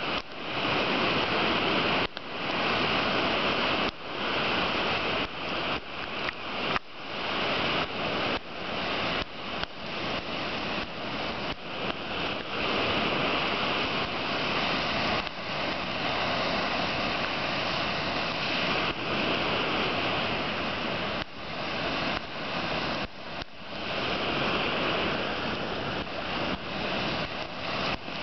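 Lake surf washing on the beach with wind: a steady rushing noise that dips sharply for an instant many times.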